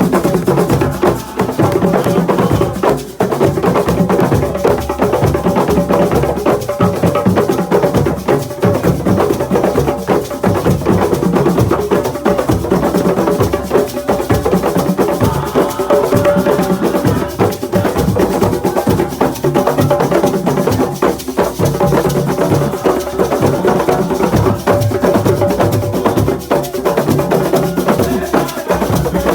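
Live assiko music: hand drums, including the square frame drum (caisse carrée), and other percussion playing a steady, dense rhythm, with sustained pitched parts over it.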